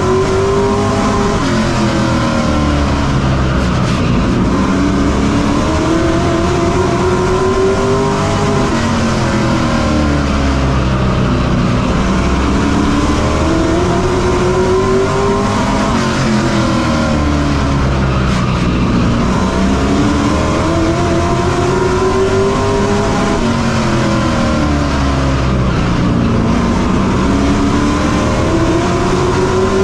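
On-board sound of a Pro Truck short-track race truck's engine at racing speed, its pitch climbing down each straightaway and dropping as the driver lifts for each turn, over and over.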